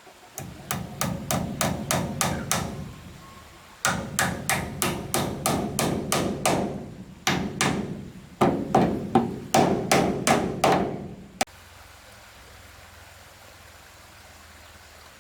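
Hammer blows on wood, struck quickly at about three to four a second in four runs with short pauses between. The hammering stops suddenly about eleven seconds in.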